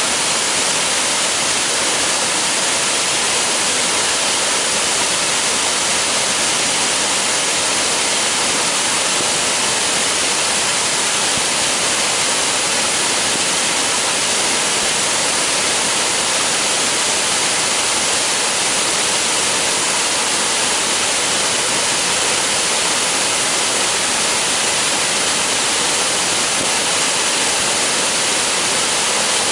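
Waterfall pouring steadily into its plunge pool: an even, unbroken rush of water.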